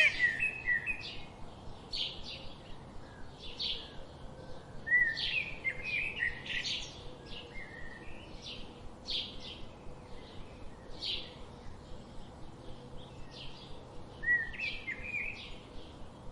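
Birds chirping: a steady stream of short, high-pitched chirps, with a louder cluster of calls about five seconds in and another near the end.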